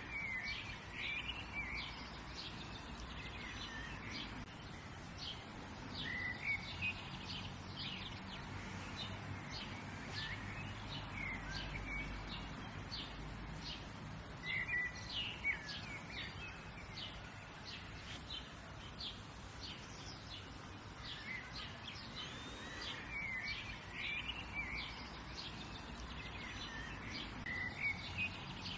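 Several songbirds chirping and singing, with many short high calls throughout over a faint steady background hiss.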